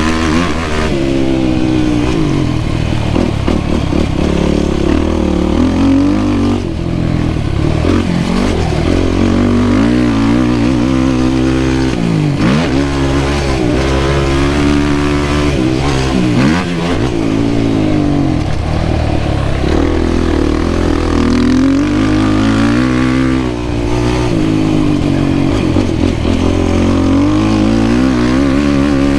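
Yamaha YFZ450R quad's single-cylinder four-stroke engine under hard riding. The revs climb and fall again and again, with sudden drops in pitch where the throttle is shut off.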